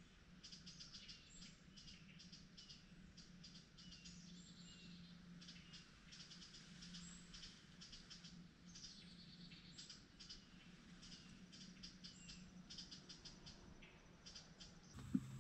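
Faint birds chirping, with many quick repeated chirps and a few short falling calls, over a faint steady low hum.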